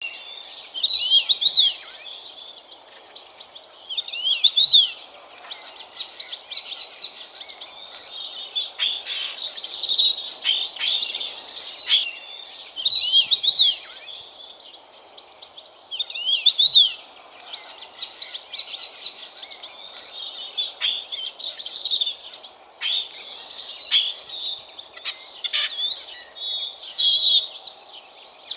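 European robin singing a sweet, steady warbling song in repeated phrases a second or two long with short pauses between. Spotless starlings call among the phrases, one mimicking a partridge.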